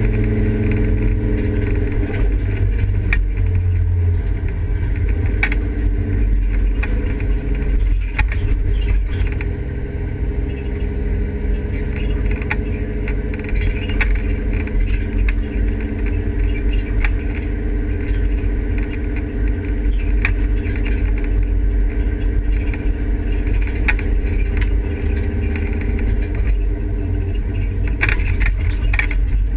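Volvo 850's five-cylinder engine running at low revs as the car drives slowly, heard from inside the stripped cabin, with scattered clicks and rattles.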